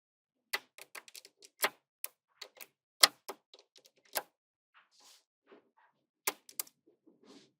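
Small magnetic balls clicking sharply against each other as they are set and snapped into place, in an irregular run of clicks. The clicks come thick in the first four seconds, pause, then two loud clicks come near the end among softer scrapes.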